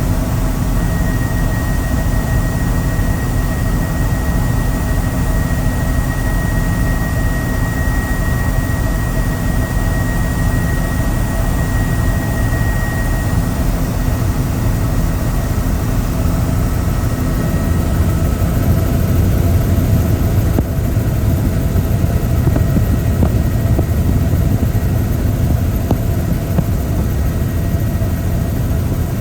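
Helicopter in flight, heard from on board: a loud, steady rotor and turbine rumble with a high whine that fades out about halfway through.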